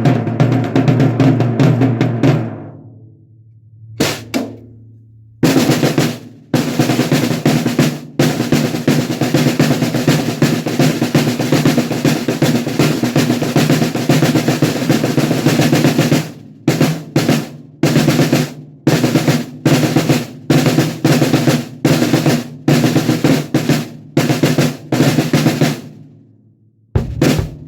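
A 14x6.5" aluminium snare drum (Noah Pure Alloy, Remo UT heads) played on its own: a fast roll that rings out, one single stroke, then a long even roll lasting about ten seconds. After it comes a string of separate strokes about two a second, each ringing briefly, and the playing starts again near the end. The drum has a dry sound, with few overtones for a metal shell.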